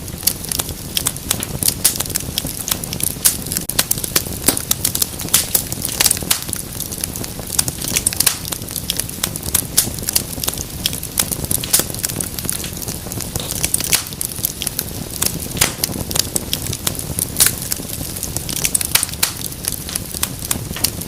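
Wood fire crackling in a fireplace: a dense, irregular stream of sharp pops and snaps over the low, steady rumble of the flames.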